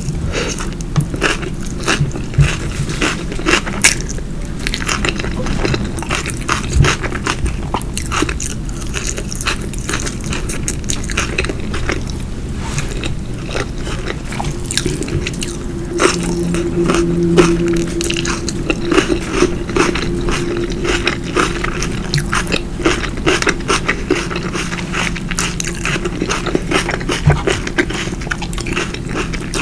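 Close-up mouth sounds of a person biting and chewing food, with many small crisp clicks and crunches. A short low hum sounds about halfway through.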